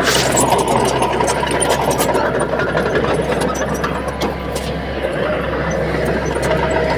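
Crawler bulldozer's diesel engine running steadily under load, with frequent light clanks and clicks from the machine as it works.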